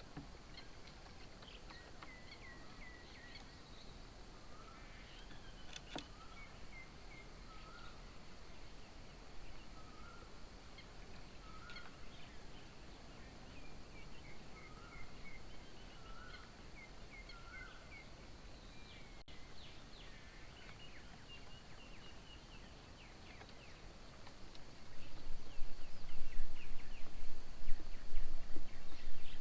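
Several birds calling: one repeats a short call about every second and a half while others chirp and trill higher up. Near the end a much louder rushing noise sets in.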